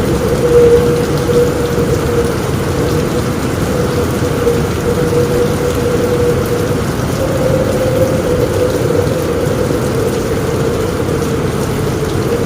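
Steady heavy rain on a roof, an even hiss with a constant humming note running through it and no distinct thunderclap.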